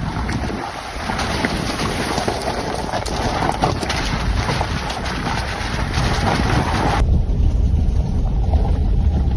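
Rushing water noise with wind buffeting the microphone. About seven seconds in it cuts off abruptly and gives way to a low, steady rumble.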